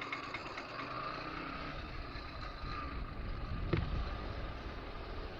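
Motorcycle being ridden along a highway, heard from a helmet-mounted camera: steady engine and wind/road noise with a faint steady whine, and a short knock nearly four seconds in.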